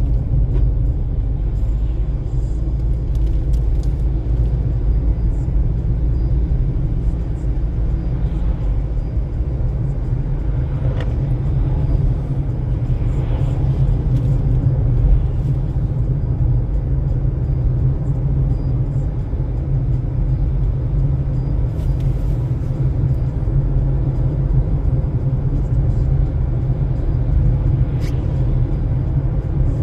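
Car driving at speed, heard from inside the cabin: a steady low rumble of road and engine noise, with a few faint ticks.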